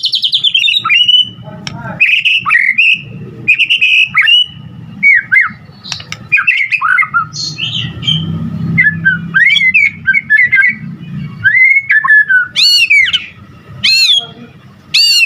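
White-rumped shama singing a loud, varied song of whistled notes that rise and fall, opening with a fast trill and ending with a few loud arched calls about a second and a half apart.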